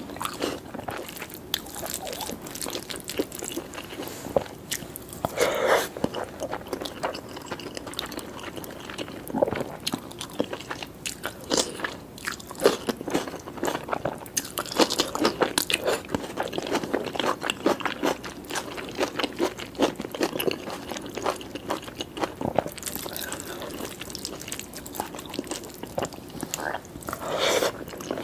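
Close-miked eating sounds: a person chewing and biting food with wet, crunchy mouth noises in an irregular rhythm, a few louder bites standing out.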